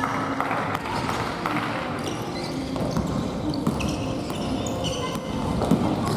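Futsal ball being kicked and bouncing on a gym floor, with scattered thuds and short squeaks of players' indoor shoes on the court.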